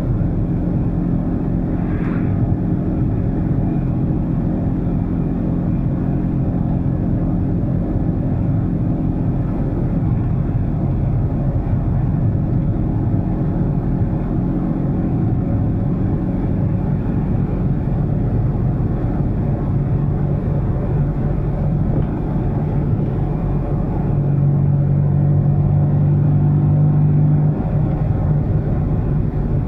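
Fiat 126p's air-cooled two-cylinder engine running while the car drives along, heard from inside the cabin. The engine note is steady, dips briefly a little past the middle, and grows louder for a few seconds near the end.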